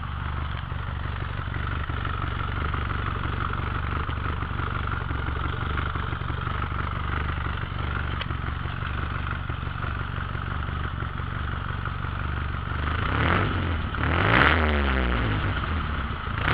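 Datsun 1200's four-cylinder engine, with a freshly rebuilt head, idling steadily through a Trophy aftermarket exhaust, heard close to the tailpipe. Near the end the throttle is blipped twice, each time revving briefly and dropping back to idle.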